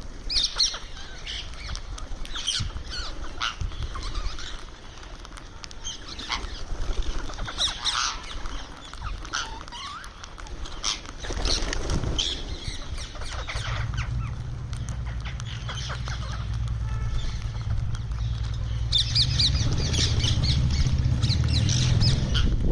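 Indian ringneck parrot making short, sharp chirps and squawks. A low, steady rumble comes in about halfway through and grows louder toward the end.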